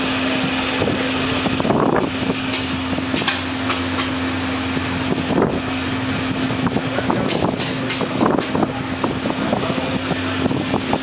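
A few sharp hammer blows on metal at a blacksmith's anvil, one a couple of seconds in, two more soon after, and a quick cluster past the middle. Under them runs a steady mechanical hum with a constant tone.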